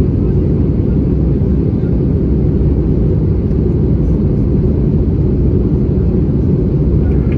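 Steady low rumble of cabin noise inside an Airbus A320-214 in flight: airflow and the CFM56-5B engines heard from a window seat.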